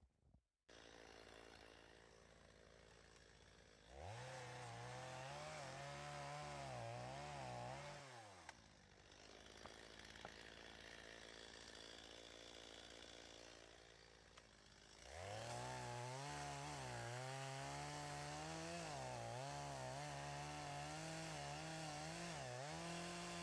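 Two-stroke chainsaw idling, then run up to full throttle twice, for about four seconds and then about eight seconds, its pitch wavering as it cuts through wood.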